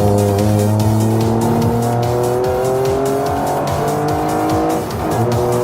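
Toyota hydrogen-combustion Corolla's engine under hard acceleration, its pitch climbing steadily through a gear, dropping at an upshift about five seconds in, then climbing again.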